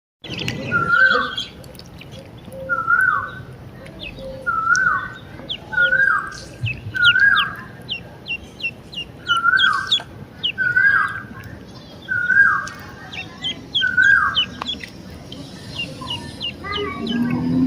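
Ducklings peeping: runs of quick, high, downward-sliding chirps. Over them a louder, lower bird call falls in pitch and repeats about every second and a half.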